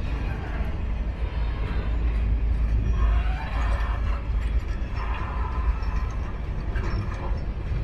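Freight train running on the track, a steady low rumble with a few brief higher-pitched sounds over it.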